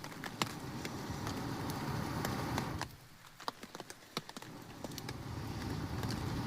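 Someone blowing into a campfire of damp wood to get it going: two long blows, each building for two to three seconds with a pause between. Through and around them, the fire crackles and pops.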